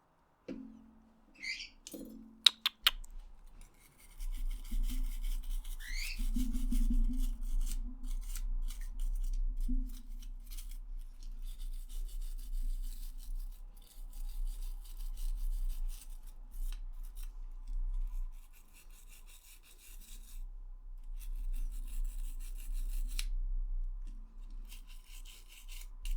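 Scrubbing on a PS4 controller's plastic shell in irregular strokes over a steady low hum, after a few clicks and two short squeaks in the first seconds.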